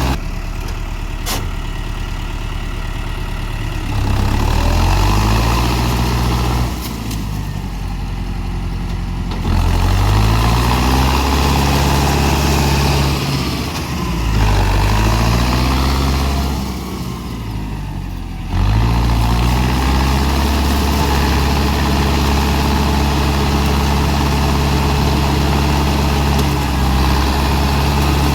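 Tractor diesel engine under load, revving up and dropping back again and again as it struggles in heavy soil. The revs climb sharply about four, nine and eighteen seconds in.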